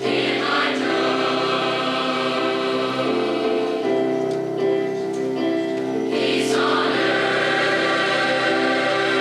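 High school choir singing in parts, holding long sustained chords that shift every second or two.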